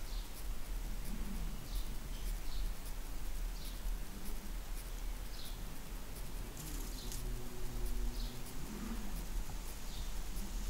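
A small bird chirping: short falling notes, faint, roughly once a second, over a steady low rumble. A low drone with a few pitches comes and goes from about six and a half to nine seconds in.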